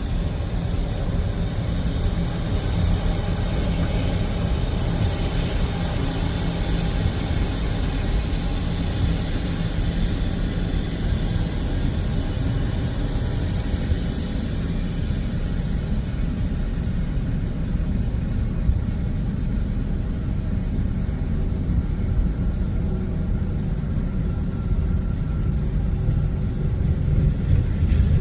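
Jet airliner engines running, a steady low rumble with a high whine that fades away about halfway through.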